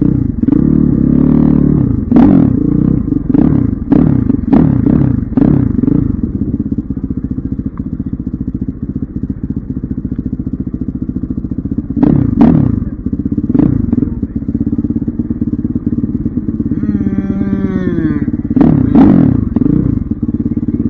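Dirt bike engine idling steadily, revved in clusters of quick throttle blips that each drop back to idle, with one slower rev winding down near the end.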